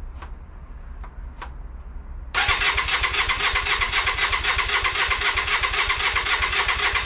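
A few light clicks, then about two and a half seconds in the electric starter of a Hyosung GV Aquila 125's small V-twin engine kicks in and cranks it over steadily with a fast pulsing beat. The engine keeps turning over without catching.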